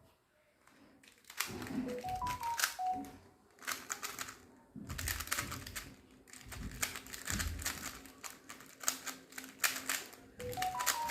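QiYi XMD Tornado V2 3x3 speed cube being turned fast in a solve: bursts of quick plastic clicking with short pauses, the cube locking up often as it turns. Short stepped electronic beeps sound twice, once early on and once near the end.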